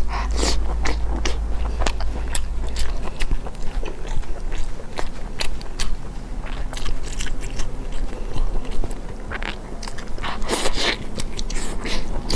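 A person biting and chewing braised pig intestine, with many short, irregular clicks of mouth and food.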